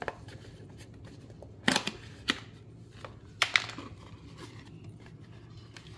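Handling noises from an oil filter and its packaging: a few sharp rustles and clicks, in two clusters about a second and a half and three and a half seconds in, over a low steady hum.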